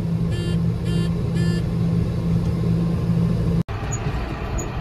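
Tractor engine running steadily under load, heard from inside the cab, with three short electronic beeps about half a second apart early on. Near the end the sound drops out for an instant and comes back with a different engine drone.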